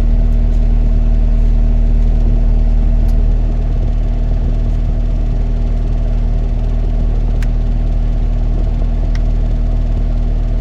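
Cat 259D compact track loader's diesel engine running steadily. It eases off slightly about three and a half seconds in.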